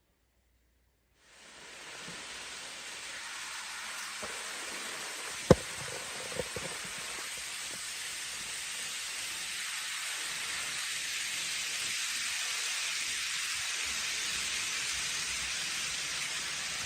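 A steady hiss that comes in abruptly about a second in and slowly grows louder, with one sharp click about five and a half seconds in and a few fainter clicks around it.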